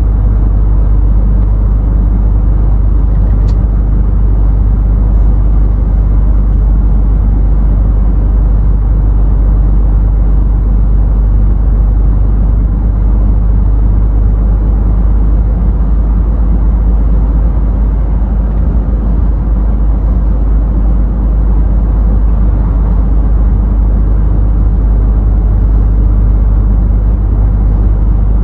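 Scania truck driving steadily: a deep, unchanging engine drone with road noise.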